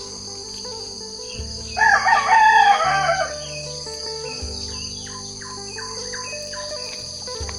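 A rooster crows once, about two seconds in, and then small birds chirp in short repeated notes over a steady high-pitched drone.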